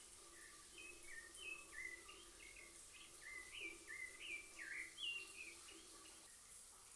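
Faint bird song: a run of short chirping notes, many stepping down in pitch, about three a second, starting about half a second in and stopping about a second before the end, over a faint steady hum.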